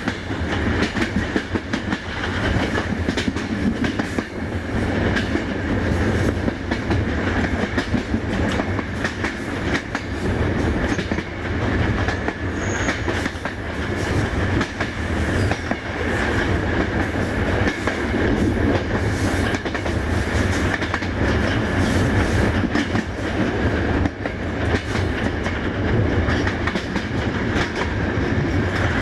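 Passenger train coaches riding along the track: a continuous rumble with wheels clacking over rail joints, and a steady high-pitched tone running under it.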